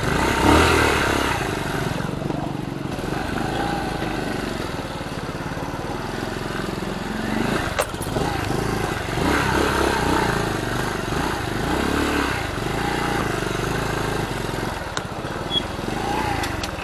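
A Honda Cub-family motorcycle's small single-cylinder four-stroke engine running as it is ridden slowly over rough ground. Its note rises and falls again and again with the throttle.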